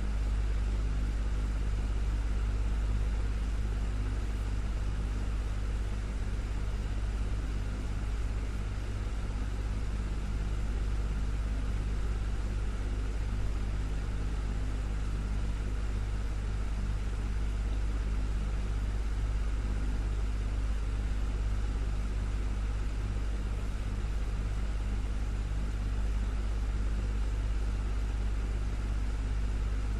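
Desktop fan running steadily: an even low hum with a faint airy rush above it.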